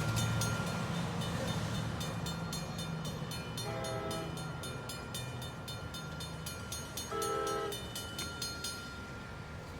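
Train running with a steady low diesel engine hum, over a fast, evenly repeated ringing that stops near the end. Two short horn blasts sound, about four and seven seconds in.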